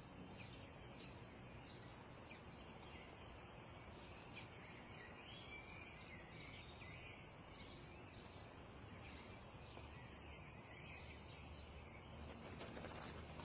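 Faint birdsong: scattered short chirps from small birds over a quiet, steady outdoor hiss.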